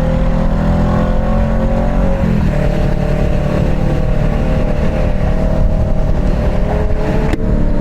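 Motorcycle engine running at highway speed under a low rush of wind and road noise, its pitch shifting up about two seconds in and then holding steady.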